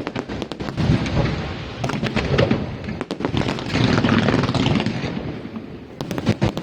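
Aerial fireworks bursting in quick succession: many sharp bangs and crackles with a rumbling echo between them. The bangs come thickest in the first second and again near the end.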